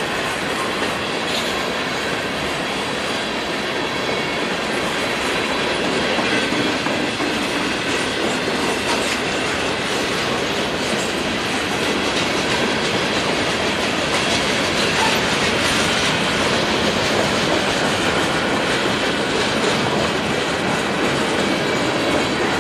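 Freight train's boxcars, covered hoppers and tank cars rolling steadily past close by, their wheels rumbling and clicking over the rails.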